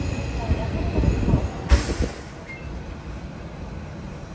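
Hankyu train pulling into the platform, its wheels and running gear rumbling with faint high squealing tones. About two seconds in a sharp click comes, and the sound drops to a quieter steady rumble inside the carriage.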